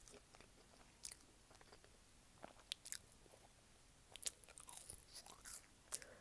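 Faint close-miked chewing of fast food: quiet mouth sounds with a few short, crisp crunches and clicks scattered through.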